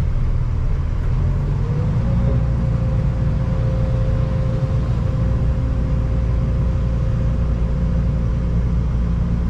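Excavator's diesel engine running steadily with a deep drone, and a steady higher whine joining about two seconds in.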